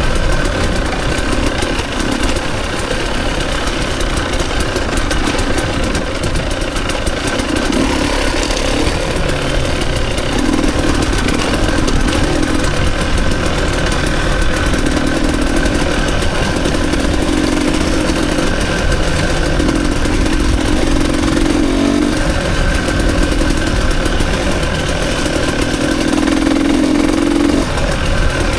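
Dirt bike engine running continuously as the bike is ridden, its pitch rising and falling in short stretches with the throttle.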